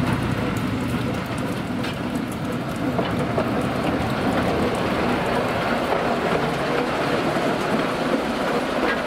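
Moelwyn, the 1918 Baldwin narrow-gauge locomotive rebuilt as a diesel-mechanical, rolling slowly past with its short passenger train. Its wheels clatter and click over the track in a steady rumble.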